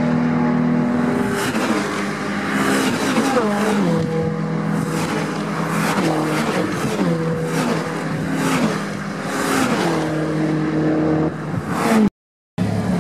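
Touring race cars running at high revs at a circuit, engine pitch climbing and stepping through gear changes as several cars go by in turn. The sound cuts out completely for about half a second near the end.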